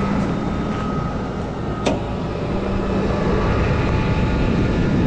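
Rollback tow truck's engine and hydraulic winch running steadily, pulling a car up the tilted bed, with a steady hum and a fainter whine. One sharp click about two seconds in.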